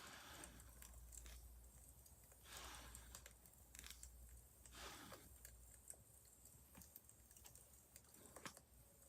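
Wood fire crackling faintly: irregular sharp pops and ticks, with a few soft rushing swells.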